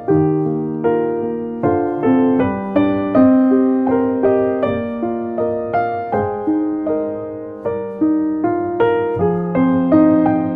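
Background music: a soft solo piano or electric piano playing a slow melody of single notes, each fading after it is struck.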